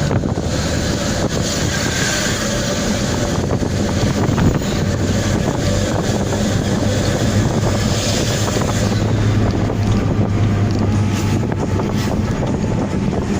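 Daihatsu Gran Max van's engine running through its modified exhaust, a low steady drone meant to sound like a night bus, swelling a little past the middle, with wind noise on the microphone.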